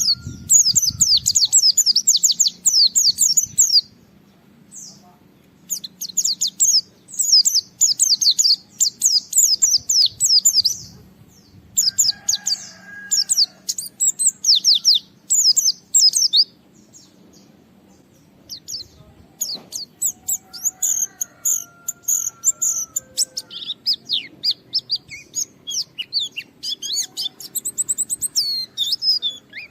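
Pleci (white-eye) in full song: long, rapid runs of high chirping notes in phrases of several seconds each, separated by short pauses. This is the bird's vigorous 'gacor' song, given as if challenging a rival.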